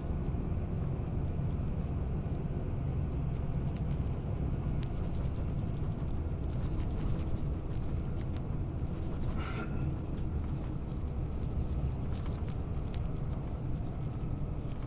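Steady low rumble of a Queensland Tilt Train carriage running at speed, heard from inside: wheels on rail and running noise, with faint scattered ticks and one brief high squeak about halfway through.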